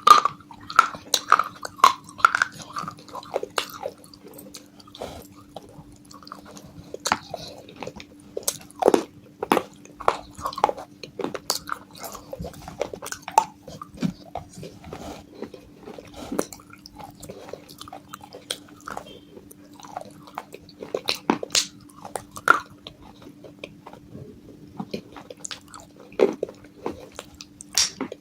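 Close-up biting and chewing of broken baked-clay pot pieces coated in white and red chalk paste: irregular sharp crunches and crackles, densest at the start and again near the end. A faint steady low hum lies underneath.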